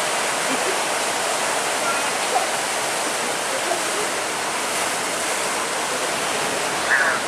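Steady rushing noise of rough sea water and breaking waves, with no clear engine note.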